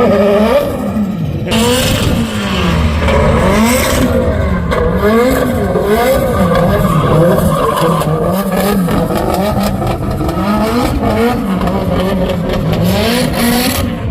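Drift car engine revving up and down over and over, about once a second, as the throttle is worked through a drift, with tyre skid noise underneath. Heard from inside the car.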